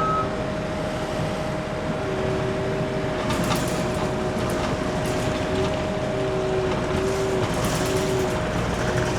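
Case TR320 compact track loader running and driving, its engine and hydraulics making a steady, loud noise with a constant whine.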